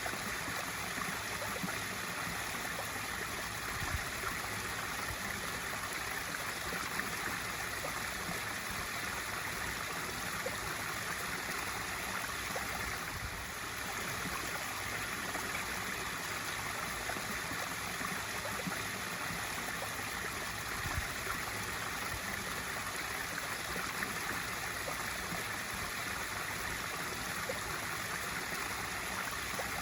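Swimming pool waterfall feature: water spilling steadily into the pool with continuous splashing and small irregular splats.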